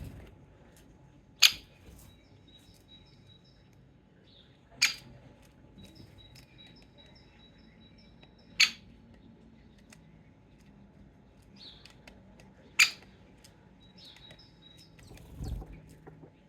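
Greater spotted woodpecker giving sharp single 'kik' calls, four of them a few seconds apart, over faint high-pitched song of other small birds. A dull low thump comes near the end.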